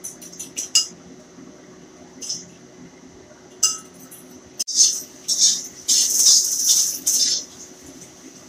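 A metal spoon clinks against a ceramic bowl several times in quick succession as the contents are stirred. Then come a few separate knocks, and a loud run of harsh clattering from a wok and utensils on the gas stove in the second half.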